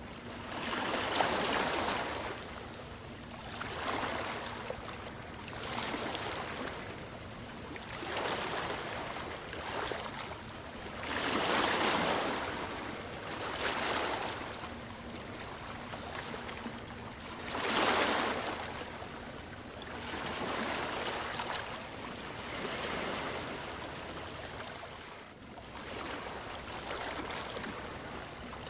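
Small sea waves washing in on a shore. Each wave is a rushing swell that rises and falls away every two to four seconds.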